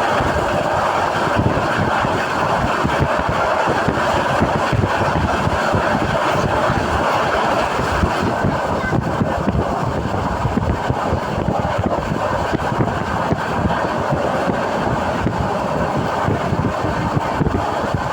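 Passenger train running along the line, heard from inside the carriage: a steady, loud running noise with no break.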